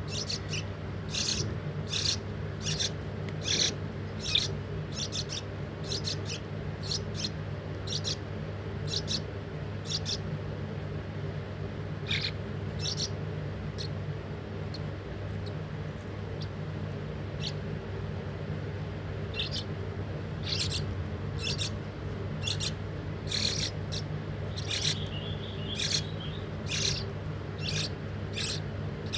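Young kroang birds chirping: short, high calls repeated in quick runs, with a lull in the middle, over a steady low hum.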